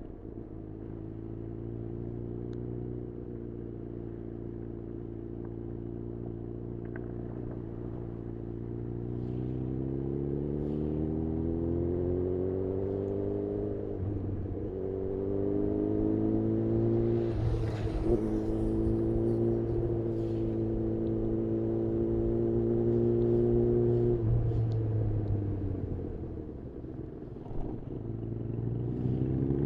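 2018 Honda CB1000R's inline-four engine, breathing through a full-system Black Widow exhaust, pulling steadily up through the revs under way. It drops briefly about halfway through, like a gear change. It then holds a steady pitch, falls away as the throttle closes a few seconds before the end, and picks up again right at the end.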